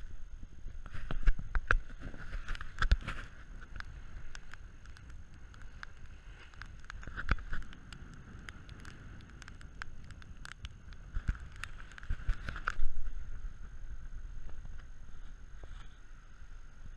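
Sounds aboard a small sailboat under way: irregular knocks and taps, loudest a few times, over a steady low rumble and hiss from wind and water.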